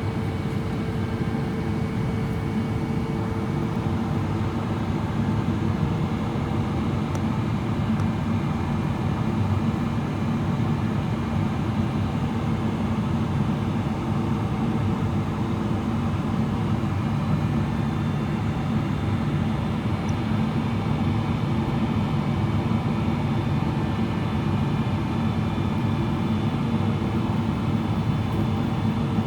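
Steady cabin noise inside a Boeing 777-300ER on approach: the rush of airflow and the hum of its GE90 engines, with a few faint steady tones over a deep, even roar.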